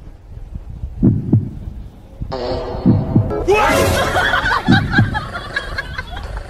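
Heartbeat-like double thumps, three slow pairs, from a karaoke microphone with a built-in speaker pressed against a small dog's body. Music comes in on top about two seconds in.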